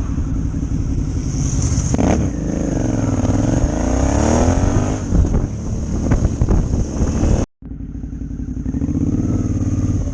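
Motorcycle engine running on the move, its pitch falling and then rising again about two to five seconds in as the revs change. The sound cuts out abruptly for a split second about three-quarters of the way through, then the engine is heard running again.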